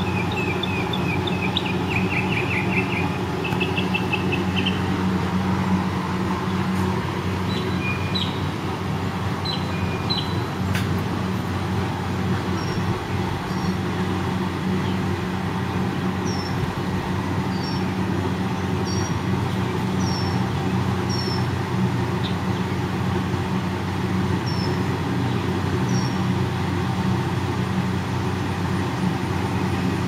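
Small birds chirping: a quick run of chirps in the first few seconds, then scattered short notes and single high chirps, over a steady low hum.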